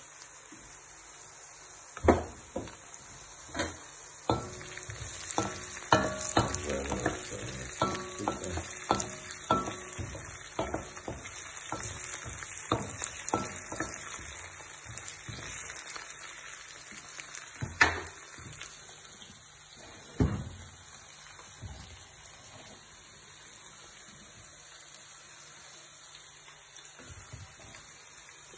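Onion and carrot frying in hot oil with a steady sizzle, while a utensil knocks and scrapes against the pan as they are stirred; the knocking stops about two-thirds of the way through, leaving the sizzle alone.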